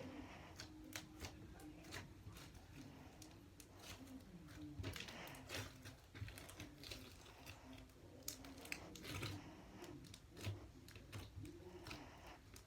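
Homemade slime being squished and poked by hand, making quiet, irregular clicks and crackles.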